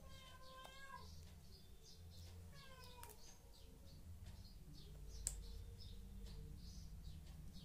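Faint high chirping repeated a few times a second, with two short pitched calls in the first three seconds and a single sharp click about five seconds in.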